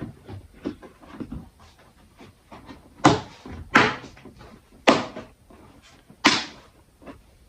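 Four sharp knocks or snaps a second or so apart as a plastic part is pushed and tapped to clip into place, with lighter clicks and handling noise between.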